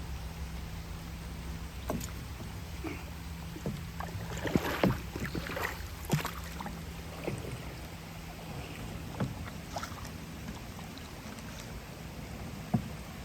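Splashing water and knocks against a small boat's hull as a gill net is paid out into a river, clustered a couple of seconds in and tailing off, with one sharp knock near the end. A low steady hum runs underneath.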